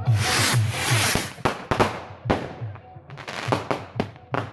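Fireworks going off: a dense crackling hiss in the first second, then a string of sharp bangs and pops, several in quick succession, as rockets launch and burst.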